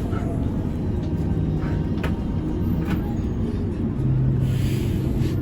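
Mercedes-Benz O405N2 city bus on the move, heard from inside the passenger cabin: a steady low engine rumble with a couple of short clicks or rattles. The engine note steps down about four seconds in.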